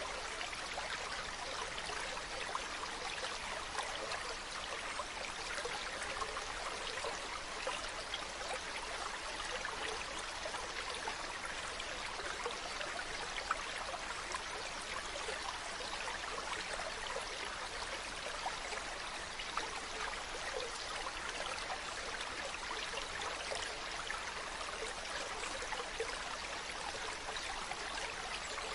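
Mountain stream running over rocks, a steady splashing rush of water with small trickling crackles.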